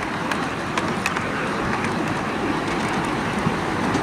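Onboard a 7¼-inch gauge miniature train running along the track: the steady running noise of the wheels on the rails, with scattered sharp clicks.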